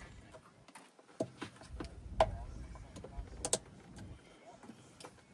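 Scattered plastic clicks and knocks as a wiring harness connector under a truck's center console is worked loose by hand, the loudest knock about two seconds in and a quick double click a little later.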